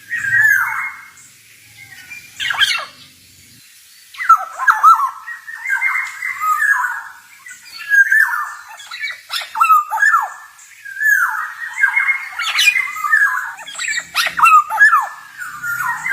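Male black-naped oriole singing: fluty whistled phrases mixed with harsh, squawky notes, in bursts with short pauses near the start and almost unbroken from about four seconds in.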